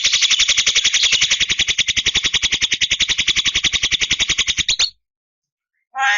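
A bird's rapid, even rattling trill of about fourteen pulses a second that cuts off abruptly near the end, followed by the start of a short call.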